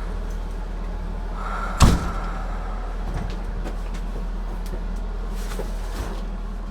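An ambulance door slamming shut about two seconds in, over a steady low hum, with a few light clicks later.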